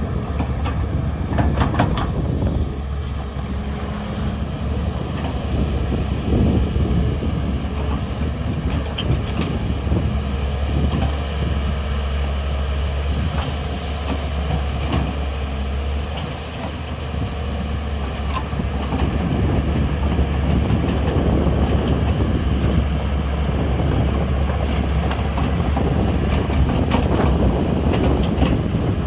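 Heavy diesel construction machinery, a hydraulic excavator and truck at work, running steadily with a deep low rumble. Scattered knocks and clanks sound over it.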